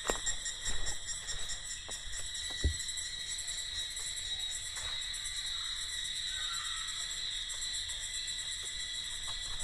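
A chorus of insects singing steadily in the forest, several high-pitched tones at once, the highest of them pulsing rapidly. A few soft knocks come in the first three seconds.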